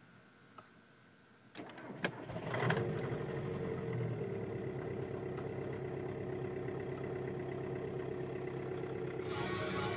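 2005 Audi A3 2.0 TDI four-cylinder turbodiesel cold-started at minus 8 °C: after a few faint ticks, the starter cranks about a second and a half in, the engine catches within about a second and settles into a steady idle.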